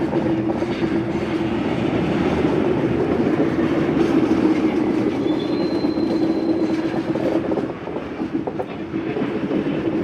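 Train rolling past at speed, its wheels clattering over the rail joints with a steady rumble; the sound eases off slightly near the end.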